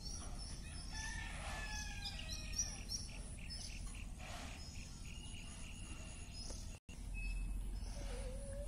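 Birds chirping and calling in the background: many short high chirps and a few falling calls, over a steady low hum. The sound cuts out for a moment about seven seconds in.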